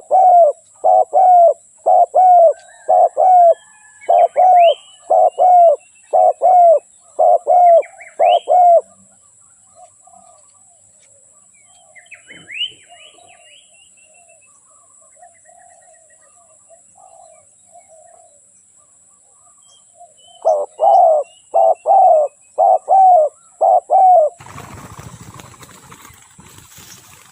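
Spotted dove cooing: a quick run of low, repeated coo notes, about two a second, that stops after about nine seconds and starts again near the end, with softer low notes and a few high chirps from other small birds between. A burst of noise follows the second run.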